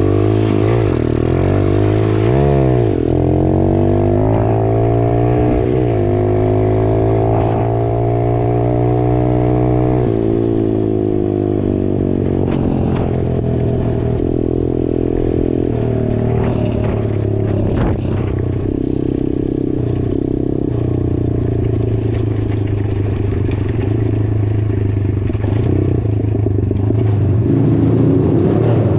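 150cc dirt bike engine at full throttle, climbing through the gears: the pitch sweeps up and down in the first few seconds, rises steadily for several seconds, drops at a gear change about ten seconds in, then holds high and steady at wide-open throttle.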